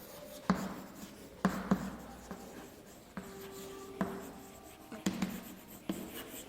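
Writing on a board by hand: irregular sharp taps and short scratching strokes as the words are written out.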